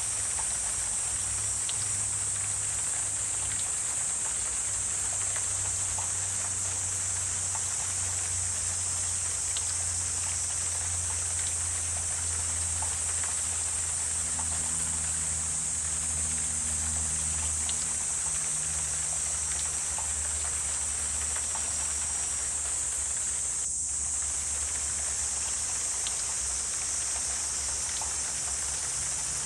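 Wetland ambience: a steady, high-pitched insect drone over a soft background wash, with faint scattered ticks like drips and a low hum underneath that shifts pitch every few seconds.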